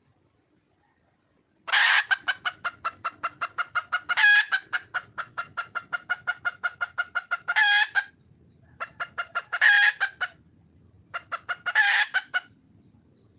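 Red junglefowl hen cackling: rapid clucks at about seven a second, broken by louder drawn-out notes, in one long bout and two short ones. It is the hen's call to a male.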